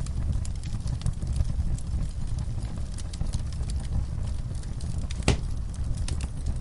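Wood fire burning in a fireplace: a steady low rumble of flames with frequent small crackles and one louder pop about five seconds in.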